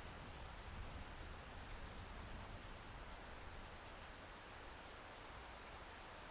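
Light, steady rain: a soft even hiss with scattered drop ticks, a few more of them in the first couple of seconds.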